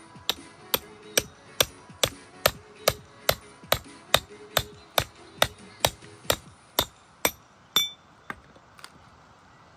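Hammer blows in a quick, even rhythm, a little over two a second, about eighteen strikes in all, the last one ringing, followed by a few lighter taps. Faint background music lies underneath.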